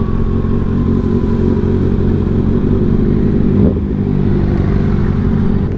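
Motorcycle engine running steadily while riding, with a brief small change in pitch a little over halfway through.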